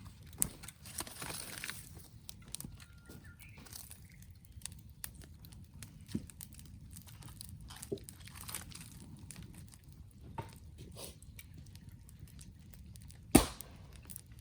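Wood campfire crackling, with scattered small pops and a brief hiss about a second in; one loud, sharp pop near the end.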